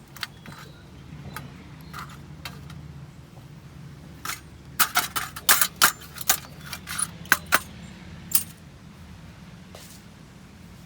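Small metal camping gear clinking and clattering: a few light clicks, then a quick run of sharp metallic clinks in the middle.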